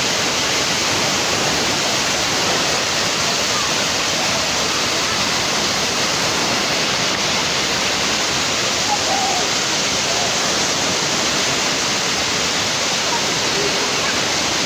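Waterfall rushing steadily: a dense, even sound of falling water that doesn't change.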